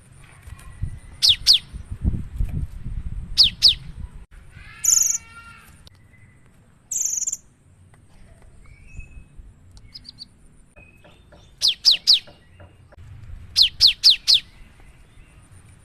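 Cinereous tit (gelatik batu) singing in quick bursts of two or three sharp, falling whistled notes, repeated in groups with pauses between. A harsher buzzy call comes about five seconds in, and a brief high squeak about seven seconds in.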